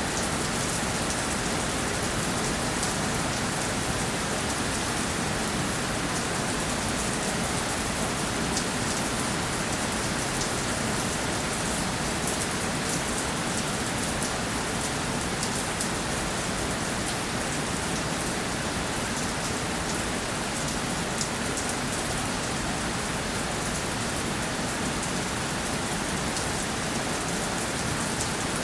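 Steady rainfall, with a dense, even patter of drops hitting a surface.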